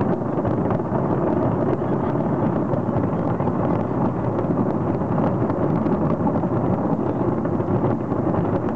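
Fireworks going off in rapid, unbroken succession: a continuous rumble of booms with a dense crackle of small reports.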